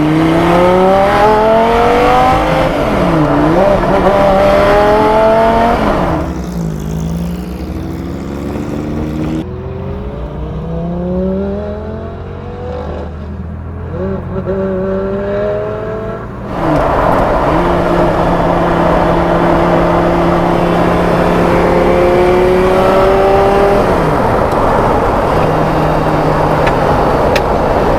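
Audi R8 V10 engine of a Porsche 917 replica accelerating through the gears: the revs climb, drop at each shift and climb again several times. For about ten seconds in the middle it sounds quieter and duller. Near the end it holds steadier revs.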